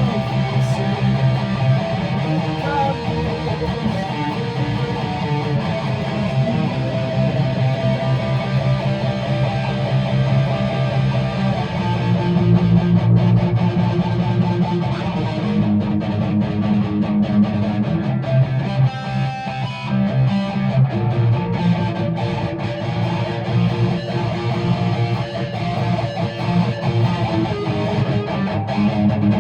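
Guitar music: a guitar played with strummed chords, going on steadily throughout.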